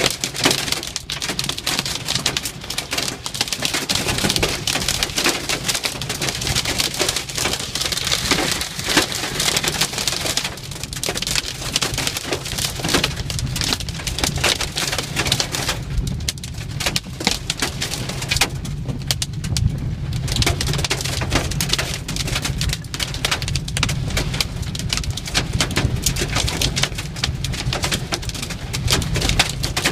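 Hailstorm: hailstones pelting hard surfaces in a dense, continuous clatter of impacts, together with heavy rain.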